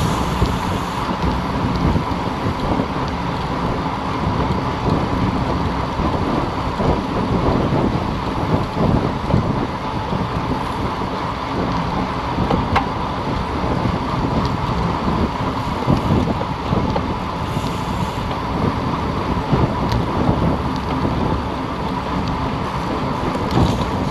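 Wind buffeting the microphone of a camera riding along on a moving road bicycle: a steady rumbling rush with a faint steady high tone under it.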